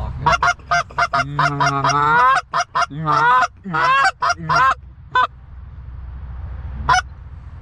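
Geese honking and clucking: a quick run of short calls with one longer drawn-out honk among them, then a lull and a single sharp honk near the end.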